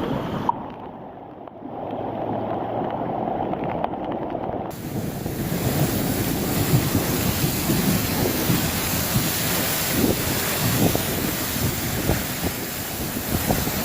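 Thunderstorm wind gusting and buffeting the microphone, with rumbling low gusts over a steady hiss of wind and rain. The high hiss drops away for about four seconds near the start, then returns.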